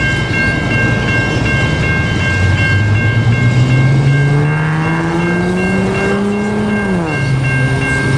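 Level crossing warning bells ringing steadily while a V/Line diesel train approaches. The train's engine note rises slowly for several seconds, then drops suddenly about seven seconds in.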